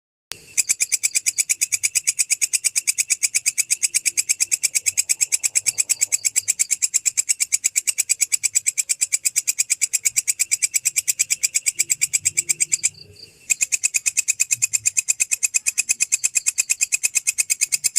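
A singing insect stridulating: a fast, even train of high-pitched chirps. It starts just after the beginning, breaks off briefly about 13 seconds in, then goes on again.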